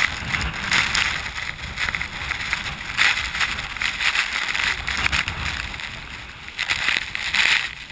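Water splashing and swishing with kayak paddle strokes, in uneven surges about once a second, over a low wind rumble on the microphone.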